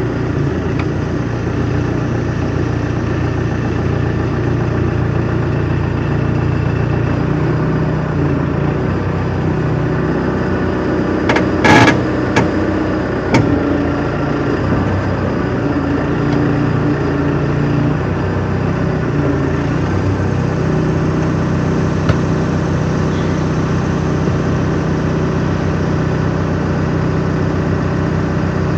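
A motor vehicle's engine running steadily at a low, even speed, with a rough low rumble. A few sharp knocks or rattles come close together about twelve seconds in.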